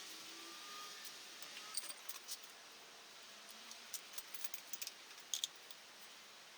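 Light metallic clicks and jingles of small metal items being handled, scattered irregularly over a few seconds, above a faint steady hiss.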